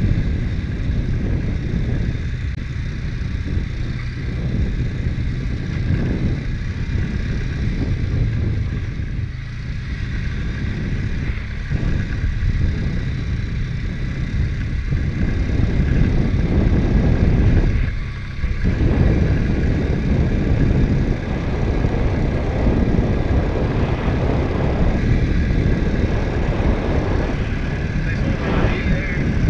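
ATV engine running under way, a steady low drone with a constant whine over it, easing off briefly about two-thirds of the way through before picking up again.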